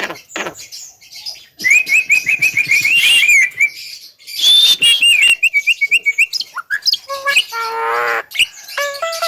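Javan myna calling: two quick runs of high chirps, about six a second, then lower, fuller calls and a string of repeated notes in the last few seconds.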